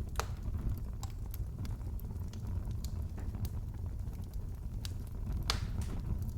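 Wood fire crackling in a fireplace: a steady low rumble with scattered sharp pops, two louder ones just after the start and about five and a half seconds in.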